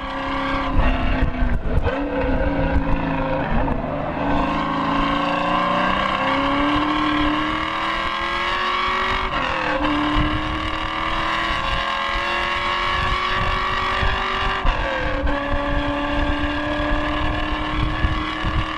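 LS1 5.7-litre V8 of a Pontiac Firebird under hard acceleration on a racetrack. The engine note climbs steadily and drops sharply at two upshifts, about nine and fifteen seconds in.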